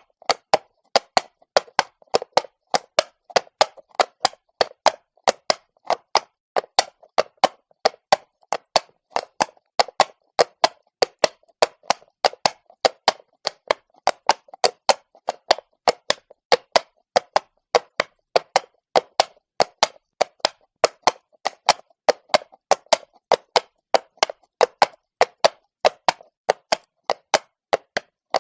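Horse hooves walking on cobblestone: a steady, even rhythm of sharp hoof strikes, about three a second.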